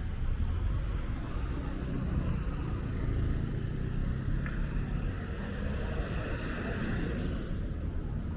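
A motor vehicle passing, its tyre and engine noise swelling a few seconds in and fading before the end, over a steady low street rumble.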